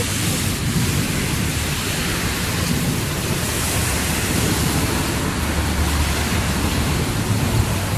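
Heavy rain falling in a steady downpour, an even hiss with a low rumble underneath.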